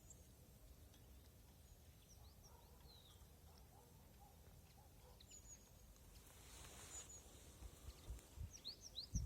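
Faint, near-silent outdoor quiet with scattered short, high chirps of small songbirds, a few more of them close together near the end. A soft rustle rises in the second half, with a few faint low thumps near the end.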